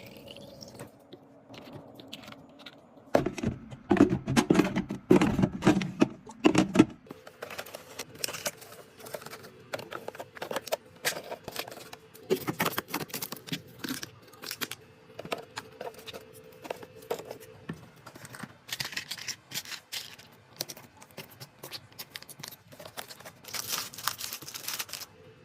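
Snacks, drinks and their packaging being handled and set into a mini fridge: a string of irregular short clicks, knocks and rustles of wrappers and containers.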